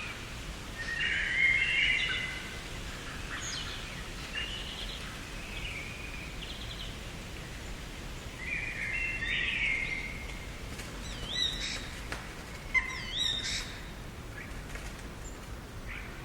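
Garden birds calling and singing in short separate phrases over a steady background hiss, the loudest phrase about a second in and sharp chirps near the end.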